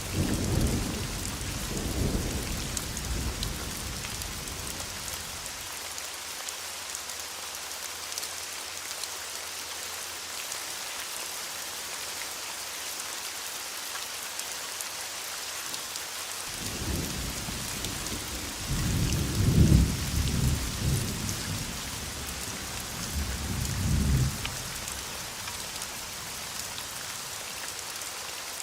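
Steady rain with rolling thunder. A rumble dies away over the first few seconds, then a long roll of thunder starts just past the middle, peaks about two-thirds of the way in, and ends with a last rumble near the end.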